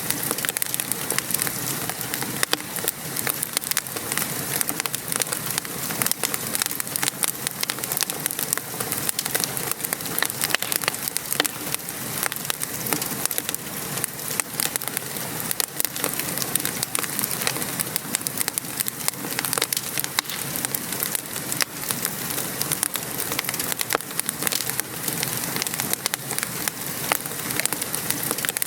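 Steady rain patter mixed with a wood fire crackling, with many small irregular pops and clicks over an even hiss.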